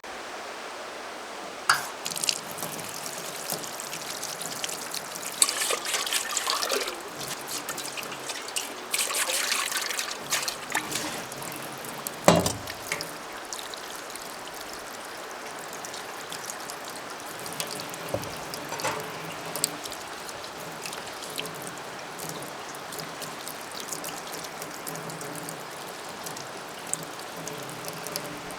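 Water trickling and splashing under a steady hiss, with scattered clicks and knocks, in two louder splashy stretches, and a sharp knock a little before the middle.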